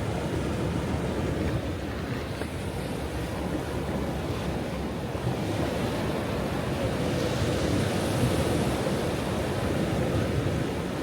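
Ocean waves breaking and washing on a shore, a continuous rushing surf that swells a little about seven seconds in, with wind on the microphone.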